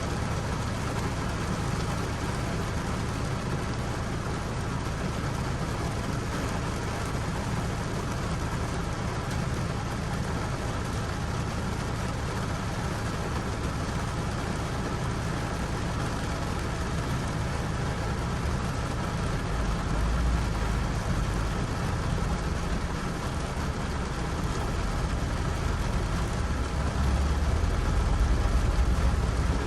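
Steady rain falling, with a deep low rumble underneath that grows louder about two-thirds of the way through and again near the end.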